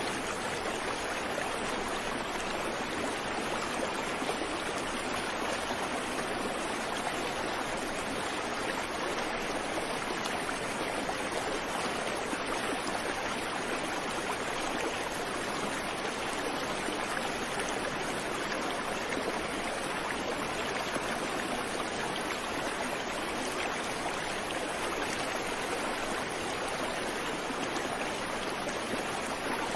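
Creek water running over stones, a steady rushing babble with no birdsong.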